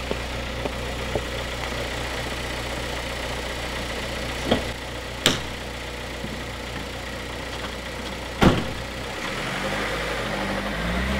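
A car engine idling steadily, with three sharp knocks about halfway through and again near the end. In the last couple of seconds a low sound steps up and down in pitch.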